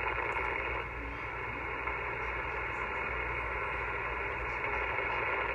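Power line interference heard through a FlexRadio Flex-1500 receiver: a steady, even buzzing hiss with a low hum beneath it, cut off sharply at the top by the radio's narrow receive filter. It is noise from a faulty power pole, the kind that drowns out weak signals.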